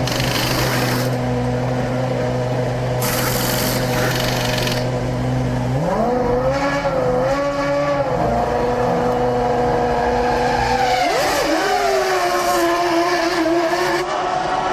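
Formula One car's V10 engine at racing speed. It holds a steady note, then about six seconds in the pitch climbs and shifts, and about eleven seconds in there is a quick swooping glide in pitch.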